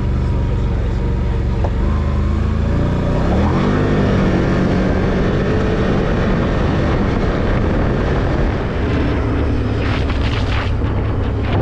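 Off-road vehicle's engine running, revving up about three seconds in as it accelerates, then driving on with tyre and trail noise. A few rattling knocks come near the end.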